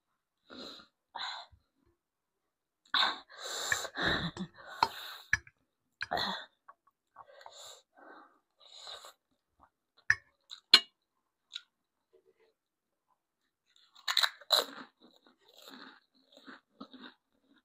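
Close-miked eating: a person chewing and biting crunchy food in irregular bursts, with a few sharp clicks a little after the middle.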